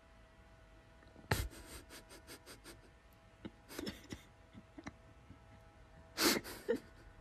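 A dog gnawing on a painted wooden stair spindle: its teeth click and scrape on the wood in short bursts, starting with a quick run of about five clicks a second and ending with a louder pair of scrapes, over a faint steady hum.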